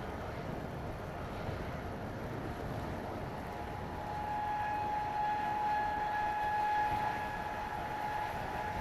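Strong wind blowing and buffeting the microphone in a snowstorm. About four seconds in, a steady high whine from machinery joins it and holds.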